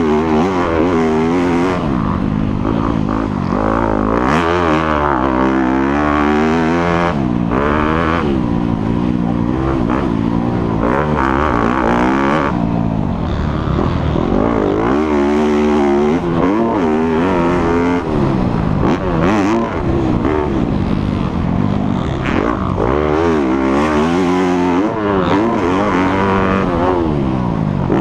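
Dirt bike engine ridden hard, revving up and down through the gears again and again, its pitch climbing and dropping every second or two.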